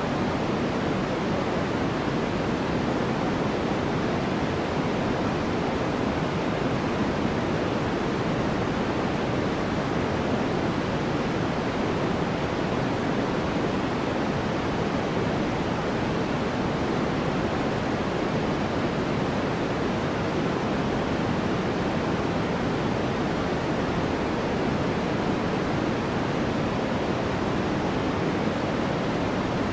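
Steady white noise made for sleep: an even, unchanging hiss and rush, heavier in the low and middle range than at the top.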